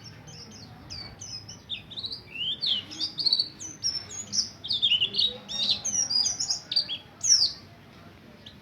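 Pleci Buxtoni white-eye singing a fast rolling string of high chirps and quick down-slurred notes, busiest in the middle and thinning out near the end.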